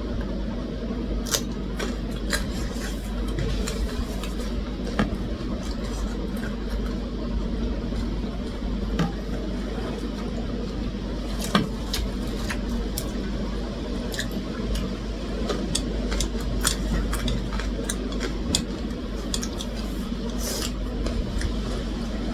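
Eating at a table: food being chewed, with scattered light clicks of cutlery against plates. A steady low hum runs underneath.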